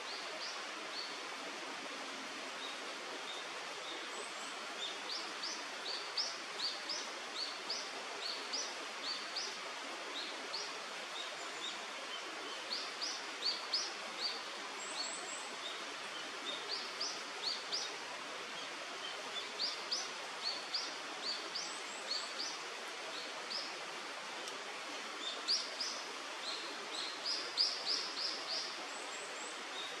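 Steady rushing of a river, with a small bird's short, high, rising chirps in quick runs over it, the loudest run near the end.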